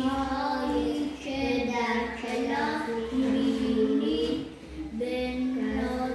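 A child singing a slow melody with long held notes.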